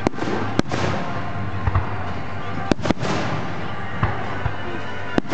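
Aerial fireworks going off: about six sharp bangs at irregular intervals, the shells bursting over a continuous crackle and hiss of burning stars.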